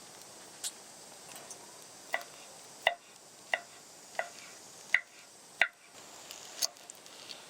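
Knife chopping on a cutting board: six evenly spaced sharp knocks, roughly one and a half a second, with a few lighter taps near the end.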